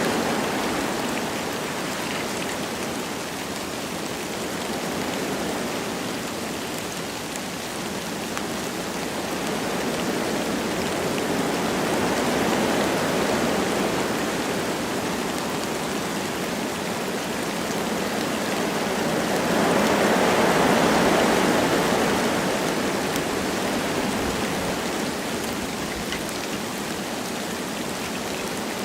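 Wind gusting through forest trees with light rain falling: a steady rushing that swells and eases in slow waves, strongest about two-thirds of the way through, with faint patter of raindrops.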